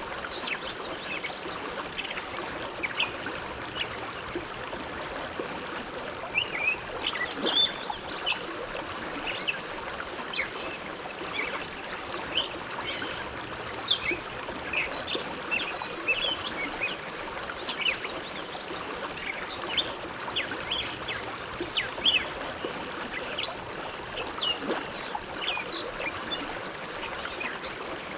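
Bow River flowing steadily, a continuous rush of water, with frequent short high-pitched bird chirps scattered over it.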